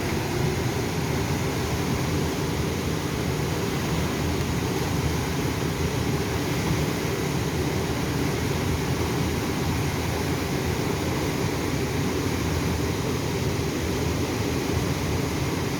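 Waterfall rushing: a steady, even roar of falling water, heaviest in the low end.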